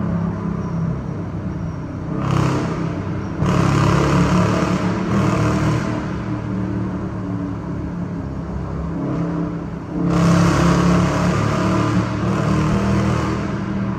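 Dodge Challenger R/T's 5.7-litre HEMI V8 running under way, with two louder surges of acceleration: one about two seconds in lasting a few seconds, another about ten seconds in.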